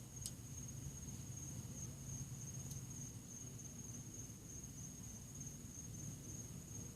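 Quiet background with a steady high-pitched whine or trill and a low hum underneath; two faint ticks, one just after the start and one about a third of the way in.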